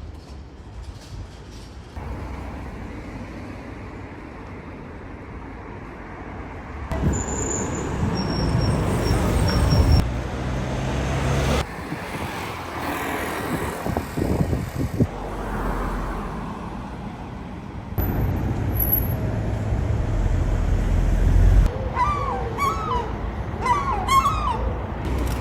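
Street traffic ambience: cars passing over a steady low rumble, broken into several short clips that change abruptly every few seconds. Near the end come a few short calls that rise and fall in pitch.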